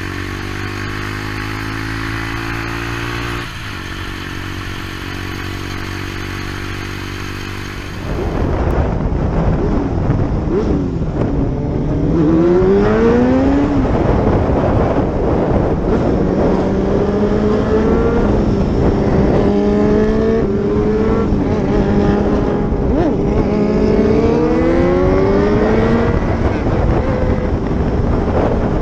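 Motorcycle engine running: first a steady drone rising slowly in pitch, then, from about eight seconds in, louder with wind rush as the bike accelerates through the gears, the pitch climbing and dropping back at each shift.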